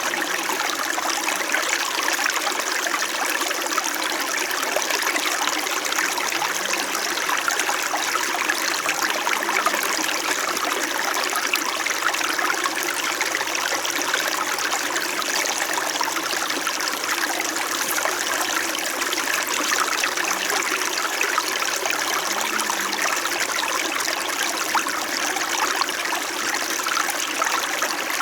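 A small stream flowing gently and steadily, an even rush and trickle of water.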